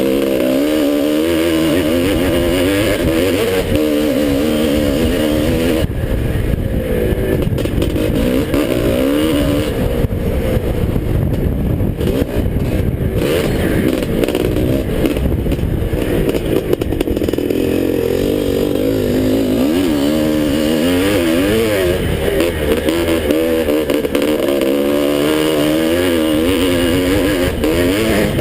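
A 1981 Husqvarna 430 two-stroke motocross bike engine running loud, its pitch rising and falling over and over as the throttle is opened and closed.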